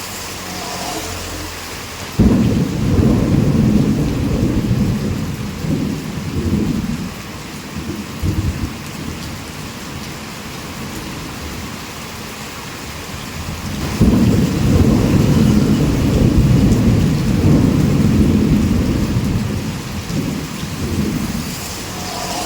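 Heavy rain falling steadily through a thunderstorm, with two deep rolls of thunder: one breaks suddenly about two seconds in and rumbles on for about five seconds, and the other breaks just as suddenly about two-thirds of the way through and rolls on for several seconds.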